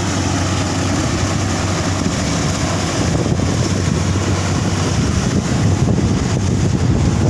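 Strong wind buffeting the microphone over the steady low running of an engine.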